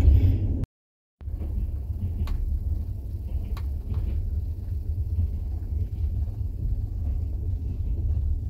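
Steady low rumble of a moving passenger train heard from inside the carriage, with a few faint clicks. The sound cuts out completely for about half a second around a second in.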